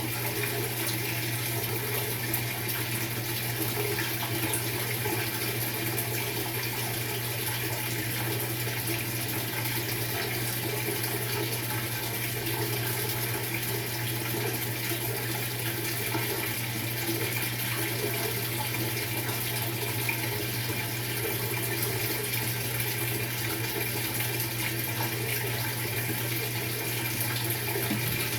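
Maytag top-load washing machine on its tub-clean cycle: water running steadily in the machine, with a constant low hum underneath.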